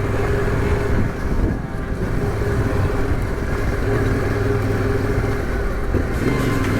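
Yamaha Ténéré 700's parallel-twin engine running at a steady pace while riding, with a brief dip in the engine sound a little over a second in.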